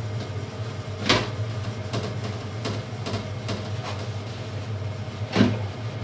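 A steady low machine hum with several clicks and knocks of household items being handled, the loudest about a second in and near the end.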